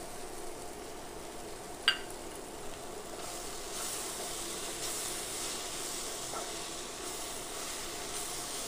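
Beans and moong dal fry sizzling gently in a nonstick pan while a wooden spatula stirs and turns it. The stirring scrapes grow louder from about three seconds in, and there is a single sharp clink about two seconds in.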